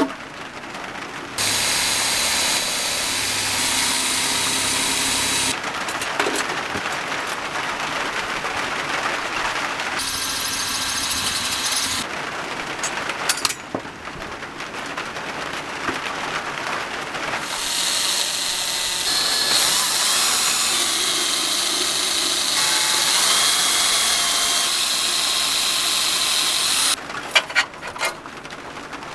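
Power tools working on the metal parts of a vintage Tonka toy crane, with a steady hiss and a whine. It comes as several short clips that start and stop abruptly.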